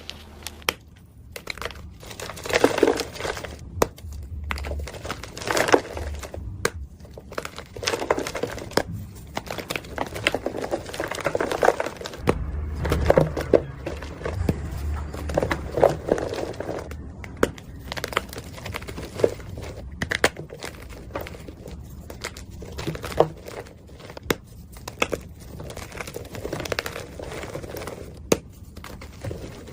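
Blocks of dyed gym chalk being crushed and crumbled, a long run of irregular crunches and sharp crackles with softer powdery crumbling between them.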